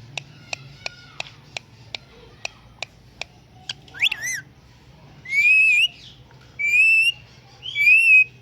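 A talking parrot whistling: one quick whistle that rises and falls about four seconds in, then three longer whistles with a wavering pitch. Before them comes a run of sharp clicks, about three a second.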